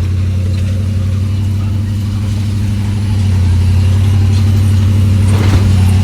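Pickup truck engine running steadily as the truck drives a dirt trail, a low even drone that grows slightly louder about three seconds in.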